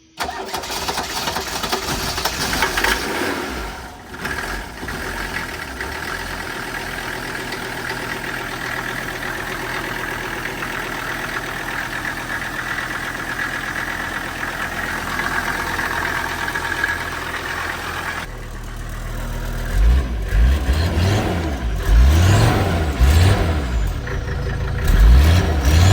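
Mercedes-Benz OM617 five-cylinder diesel engine idling steadily, then revved in a series of short, loud blips over the last several seconds.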